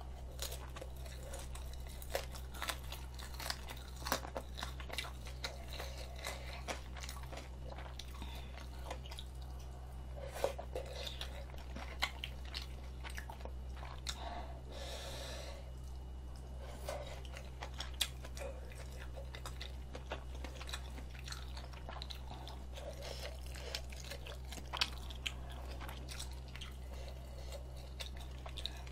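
Close-miked chewing and biting of spicy rabokki and crunchy fried dumplings: irregular wet clicks and crunches. A steady low hum runs underneath.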